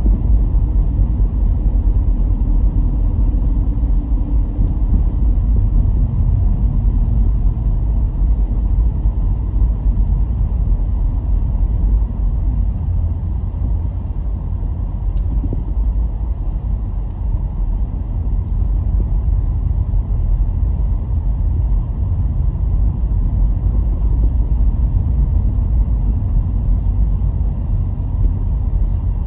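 Car driving at steady speed: a continuous low rumble of engine and tyre noise.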